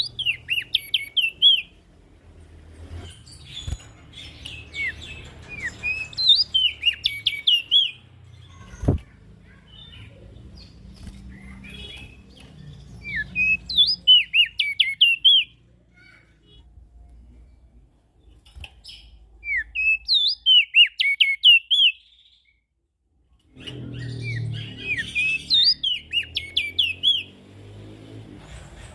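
A prenjak daun singing in quick, high, twittering phrases of rapid chirps, repeated several times with short pauses between them.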